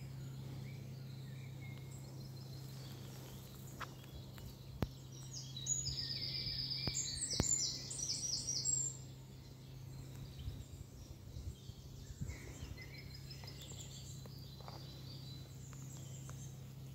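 A small songbird singing a quick run of high, rapidly repeated notes for a few seconds near the middle, with fainter calls later. A steady low hum runs underneath.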